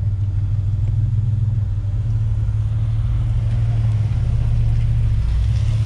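Truck engine running at low speed, a steady low hum with no break.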